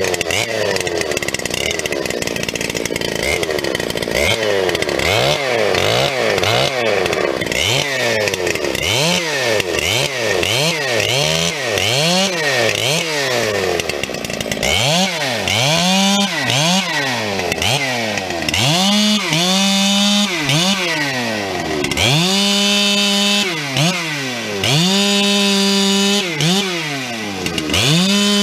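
Dolmar 7300 two-stroke chainsaw being revved over and over. For the first half it blips up and down about once a second; after that it is held at full throttle for a second or two at a time between drops to idle.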